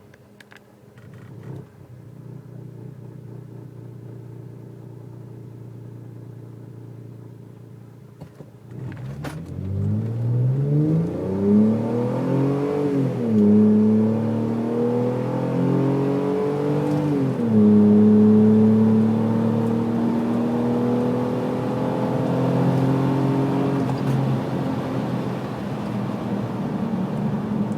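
Mercedes Sprinter V6 petrol engine sounding through a stainless steel exhaust. It runs at a low, steady idle for about nine seconds, then pulls away: the pitch climbs, dips twice, and holds steady at a higher pitch near the end.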